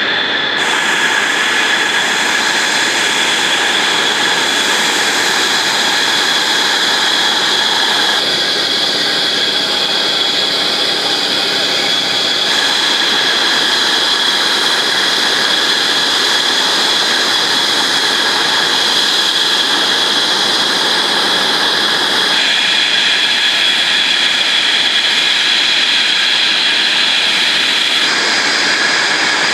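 B-2 Spirit stealth bomber's F118 turbofan engines running loud and steady, a broad rush with a high whine over it. The sound changes character abruptly several times.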